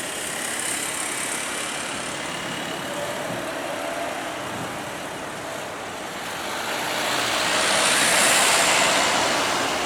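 Jet airliner engines, growing louder over the last few seconds and loudest about eight seconds in as the aircraft passes.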